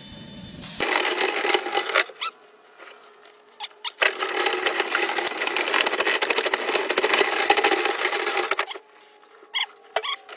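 Dryer vent cleaning equipment running in two loud stretches, a short one and then a longer one, each a dense noise with fast rattling. A few clicks and knocks fall in the quieter gaps.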